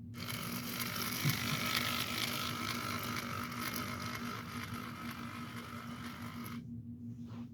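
Small electric motor and worm gear of a homemade Lego locomotive whirring steadily as it runs on a 9V battery, with the wheels running on the rails; it cuts off suddenly near the end.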